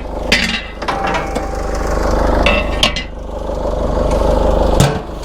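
Heavy cast-iron scrap being handled, giving a few sharp metallic clanks and knocks, over a steady low engine hum.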